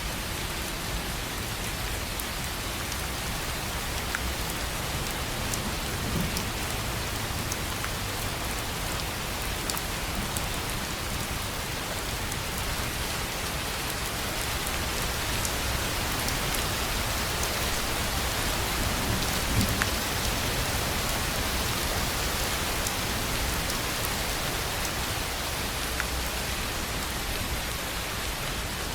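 Steady rain drumming on a tin roof: an even hiss of rainfall with many small drop ticks scattered through it.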